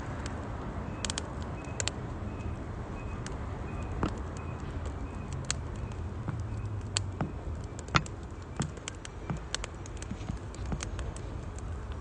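Wood fire crackling in a campfire stove: sharp, irregular pops and snaps over a low steady rumble.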